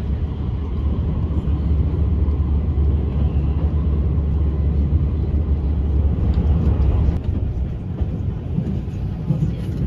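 Interior running noise of a JR West 283 series limited express train passing through a station at speed: a steady deep rumble of wheels on the track. The deepest part of the rumble lightens about seven seconds in.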